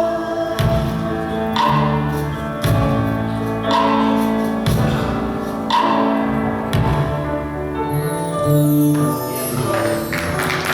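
Live gospel song: singing over band accompaniment, with a bass line and a sharp beat about once a second. Applause starts right at the end.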